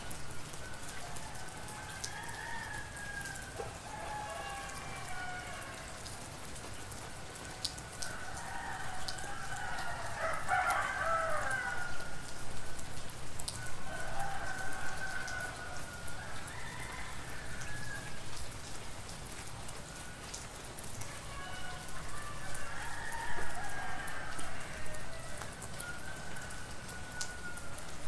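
Roosters crowing again and again over steady rain, several calls overlapping, the loudest crow about ten seconds in.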